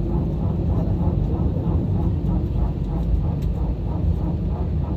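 Steady low rumble of an Airbus A320-200 heard inside the passenger cabin, with a regular pulsing of about three beats a second over it.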